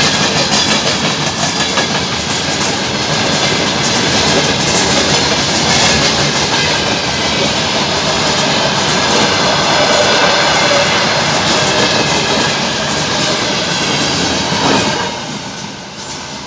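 Freight train rolling past, its wagon wheels clattering steadily over the rails. The noise drops off sharply near the end, as the train moves away.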